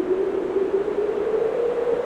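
Blizzard wind heard from indoors, howling in a steady hollow moan whose pitch wavers and slowly rises, over a constant rushing hiss.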